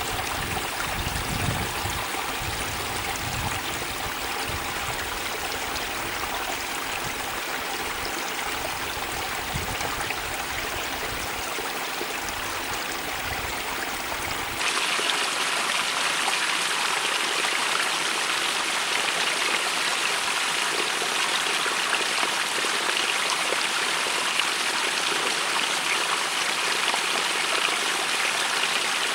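Stream running through a rock cleft: a steady rush of water. About halfway through it changes abruptly to a louder, brighter rush, and the low rumble heard before it stops.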